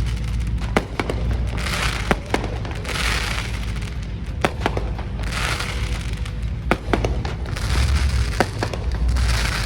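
Firecrackers going off in scattered sharp bangs, with hissing crackle in patches about a second long, over loud bass-heavy music.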